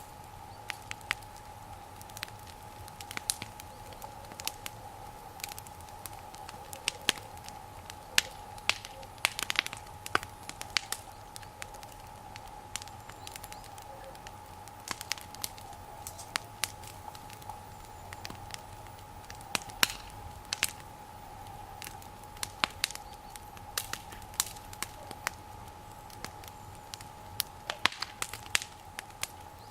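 Wood fire crackling, with irregular sharp pops and snaps, some in quick clusters. A faint steady tone runs underneath.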